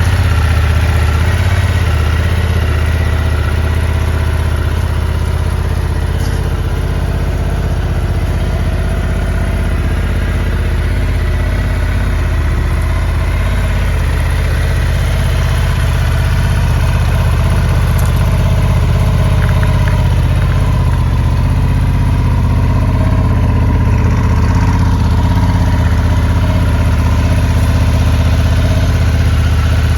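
Honda XL750 Transalp's 755 cc parallel-twin engine idling steadily.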